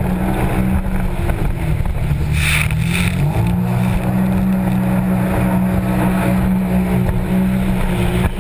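Jet ski engine running steadily. Its revs dip between about one and a half and three seconds in, then pick back up.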